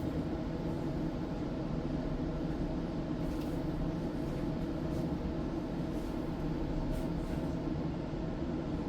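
Steady running noise of a tram heard from inside the car: an even low rumble and hum, with a few faint clicks.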